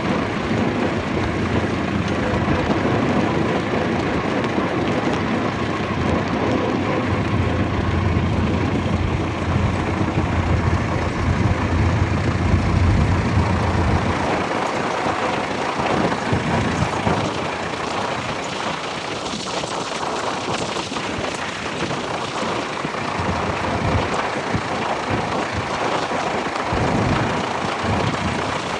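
Vintage tractor engines running in a steady, noisy rumble. The deep low rumble drops away about halfway through.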